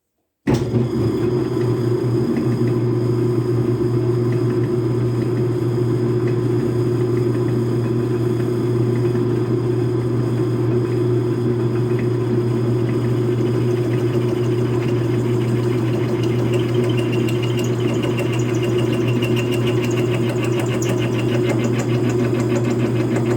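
Metal lathe running steadily while a carbide drill cuts into the bore of a steel shell mill cutter head. A thin, higher cutting whine comes in over the machine's hum about two-thirds of the way through.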